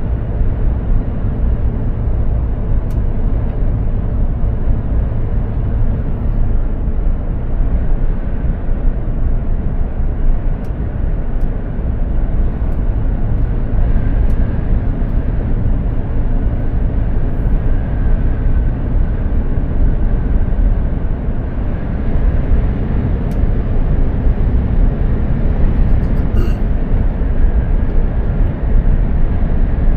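Mercedes-Benz Actros 2763 truck on the road: the inline-six diesel runs at a steady drone under constant road and tyre noise, with a faint whine coming and going in the middle.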